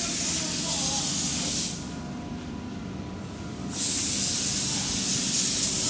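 Steady hiss of compressed air from a workshop air tool, cutting off sharply about 1.7 seconds in and starting again about two seconds later, over a low machine hum.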